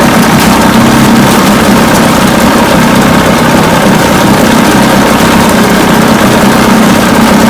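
1980 Chrysler 45 hp two-cylinder two-stroke outboard motor running steadily and loud, with an unbroken hum. It is running on both cylinders with newly fitted ignition coils, after a fix for intermittent spark on one cylinder.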